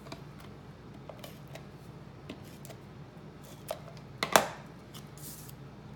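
Paper-craft handling at a table: a few faint light clicks, one sharp tap about four seconds in, then a brief soft swish as cardstock is handled and positioned.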